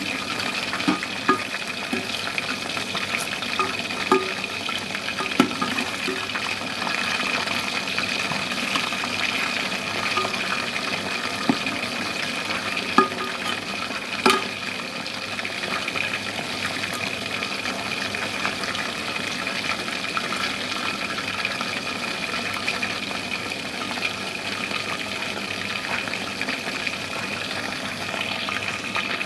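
Chicken pieces coated in a cornflour marinade sizzling in hot oil on high heat, a steady frying hiss. A spatula knocks and scrapes against the pan a few times in the first half as the pieces are turned.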